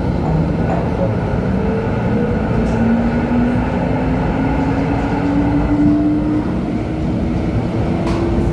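LHB TW2000 Stadtbahn light rail car running, with a steady rumble and a traction-motor whine that climbs slowly in pitch as the car gathers speed.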